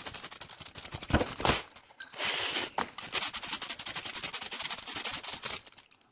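Aluminum foil crinkling and crackling as clay is worked on it, with a brief thump a little over a second in.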